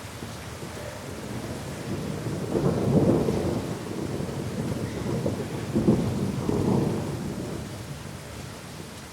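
Rolling thunder over steady rain. The rumble builds about a second in, peaks twice, about three seconds apart, and dies away near the end.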